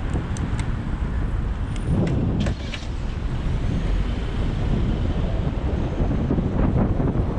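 Wind rumbling on the microphone of a moving bicycle, mixed with road traffic noise, and a few sharp clicks about half a second in and again two to three seconds in.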